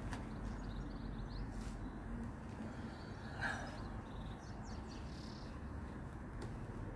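Outdoor garden ambience: faint bird chirps over a low, steady background rumble, with one brief louder sound about three and a half seconds in.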